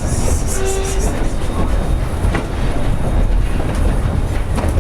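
Durango & Silverton narrow-gauge steam train running along the track: a steady low rumble with occasional clicks of the wheels over the rail joints.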